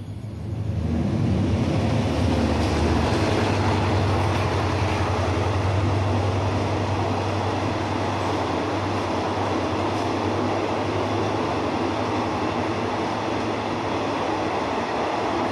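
Diesel-hauled passenger train running past: the sound swells within the first second or two into a steady rumble and rattle of coaches on the rails, with a low hum strongest for the first several seconds.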